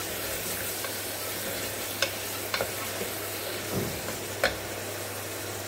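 Onion-tomato masala with ginger-garlic paste sizzling in a pressure cooker as it is stirred with a wooden spatula. The spatula knocks sharply against the pot about three times.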